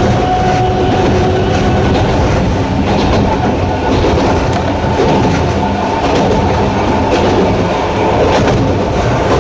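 A Sanki Railway Hokusei Line narrow-gauge electric train running, with its nose-suspended traction motors humming under the wheel and rail noise. A pitched motor tone fades out in the first second or two, leaving steady running noise.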